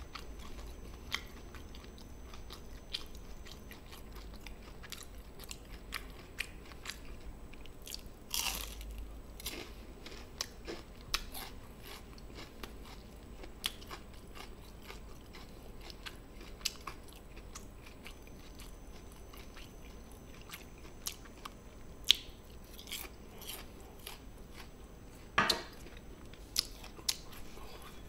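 A person chewing and biting crunchy food close to the microphone, with scattered small clicks and two louder crunches, about 8 and 25 seconds in.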